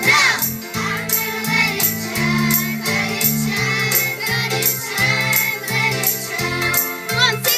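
A song with a steady beat, jingling high percussion and a bass line, sung by a choir.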